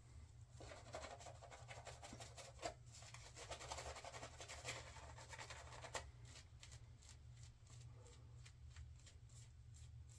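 Razor scraping through shaving lather and stubble: many short, quick strokes, faint, over a steady low hum.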